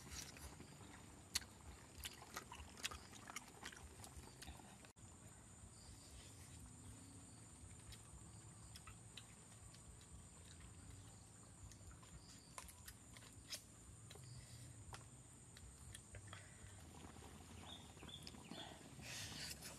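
Faint chewing and biting on beef ribs, with a few sharp clicks in the first five seconds, over a steady high-pitched drone.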